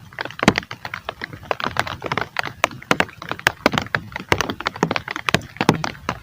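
Heavy rain with large drops striking a hard surface close to the microphone: a dense, irregular run of sharp taps, several a second.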